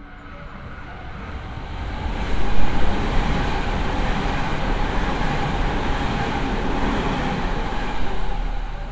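A JR Hanwa Line electric train running past along the station platform. The rumble and rail noise builds over the first two seconds or so, holds loud and steady, then falls away near the end.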